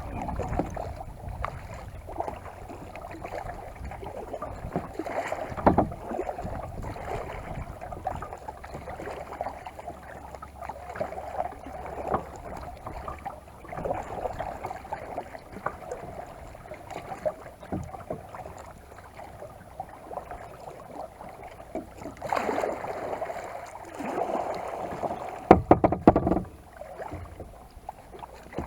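Kayak paddle strokes: the blades dip and pull through lake water in an even rhythm of swishes and drips. A few low thumps stand out, the loudest near the end.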